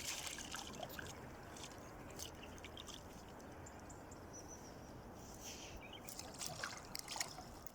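Faint dripping and trickling water with scattered small knocks and splashes, a little busier near the end.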